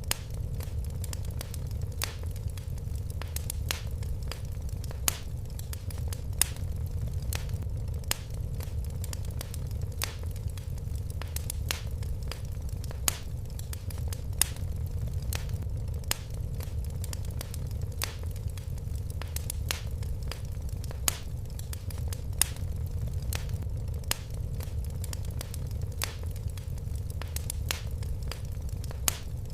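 Fire burning in a fireplace: irregular sharp crackles and pops, several a second, over a steady low rumble.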